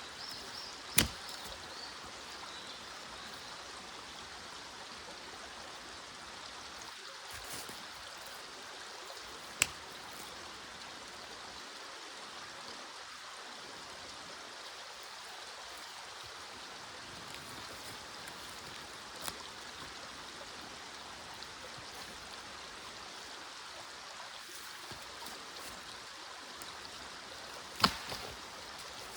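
A small stream flowing steadily, with four short, sharp knocks spaced through it.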